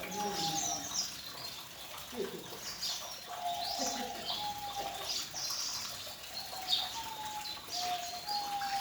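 Many small birds chirping and twittering, with a steady whistled note that comes and goes again and again beneath the chirps.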